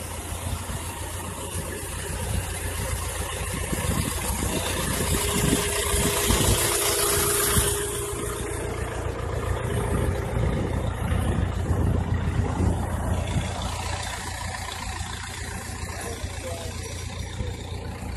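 Car engines running and idling, a steady low rumble. A loud hissing rush builds over a few seconds and cuts off sharply about seven and a half seconds in.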